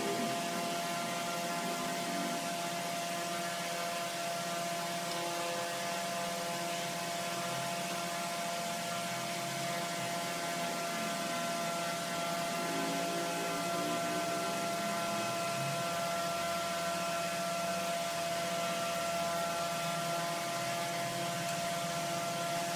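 Wood lathe's electric motor running with a steady hum.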